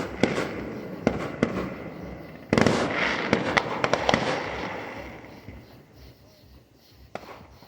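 Fireworks going off: a few sharp pops, then a loud burst about two and a half seconds in followed by crackling that dies away, and another pop near the end.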